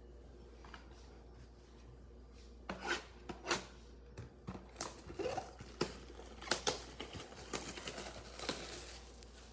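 Plastic wrapping and cardboard being torn open and crinkled as a trading card mega box is unwrapped, starting a little over two seconds in with a run of sharp, irregular crackles and rips.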